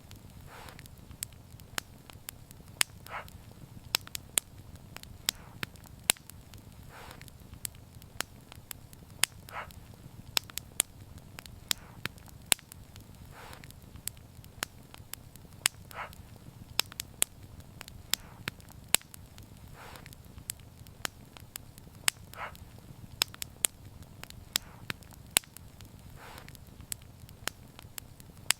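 Wood fire crackling, with sharp irregular pops over a steady low rumble of burning and softer short hisses every few seconds.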